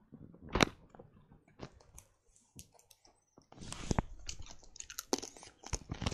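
A child chewing sour candy close to the microphone: irregular crunches and wet mouth clicks, loudest about half a second in, then busier from about halfway through.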